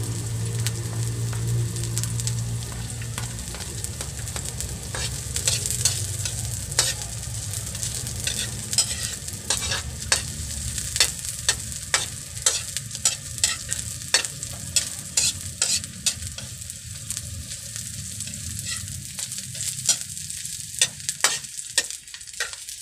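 Chopped onion and garlic sizzling in hot oil in a metal wok, with a metal ladle scraping and clicking against the pan as it stirs; the clicks come thick and fast from about five seconds in. A low hum sounds under the sizzle for the first few seconds, then fades.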